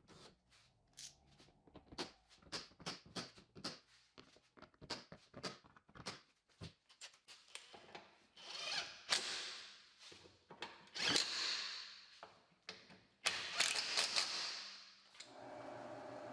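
Workshop mechanical noise: a quick run of sharp clicks and ratcheting over the first half, then three longer hissing swells. A steady hum comes in near the end.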